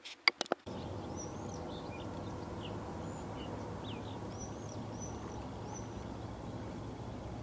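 Small birds chirping and calling with short, scattered notes over a steady low background noise, after a few sharp clicks in the first half second.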